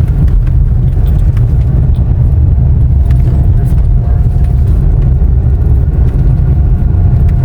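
Moving car's steady low road and engine rumble, heard from inside the car.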